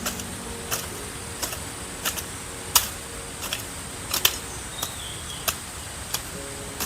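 A run of sharp taps or knocks, roughly one and a half a second, with the loudest a little under three seconds in, over soft background music.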